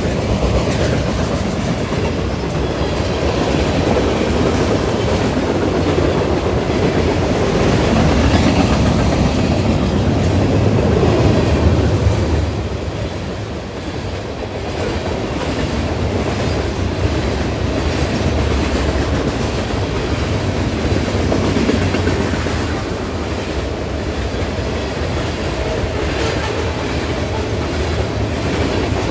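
Freight cars of a CN manifest train rolling past a grade crossing at speed, steel wheels clattering steadily over the rails, with a short dip in loudness about halfway through.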